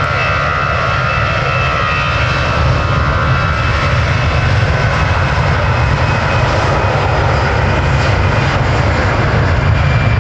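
Jet airliner's engines running loud and steady: a deep rumble with a high whine of fan tones that fades away over the first few seconds.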